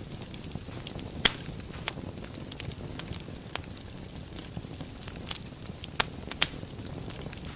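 Wood fire burning in a fireplace: a steady low rumble and hiss with scattered crackles and a few sharp pops, the loudest about a second in and three more close together near the end.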